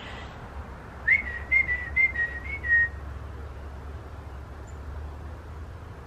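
A bird calling a short run of about six clear whistled notes at nearly the same pitch, about a second in, over a steady low background rumble.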